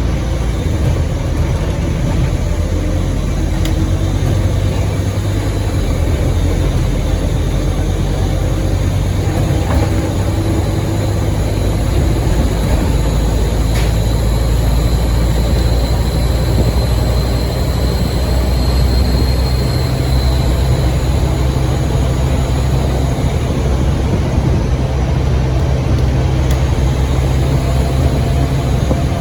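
Scania N230UD OmniCity double-decker bus's five-cylinder diesel engine running steadily under way, with a loud high turbo whistle that rises in about halfway through, holds for several seconds and then fades.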